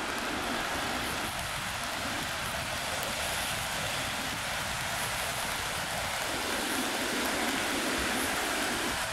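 Steady hiss of rain on wet pavement mixed with traffic on wet roads. A lower traffic rumble rises about six seconds in and eases off near the end.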